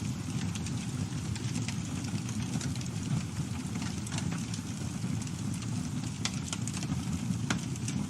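Campfire burning steadily: a low rumble of flames with frequent small crackles and pops of burning wood scattered throughout.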